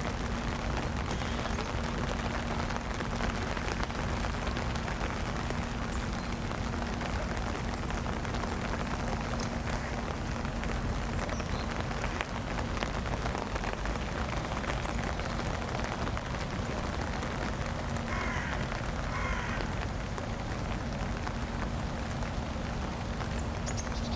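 Steady rain falling on the surroundings, an even continuous hiss, with a steady low hum underneath.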